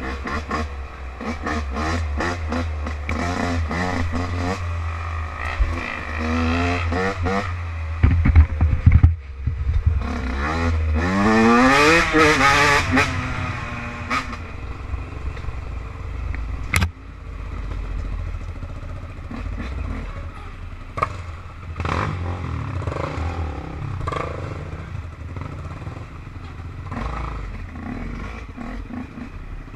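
Off-road quad or dirt-bike engine running under way over a low rumble, revving up with a rising pitch from about ten seconds in and dropping off a few seconds later. Scattered clattering knocks, the sharpest about seventeen seconds in.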